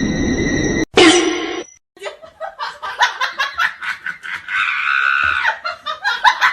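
Laughter in quick short bursts.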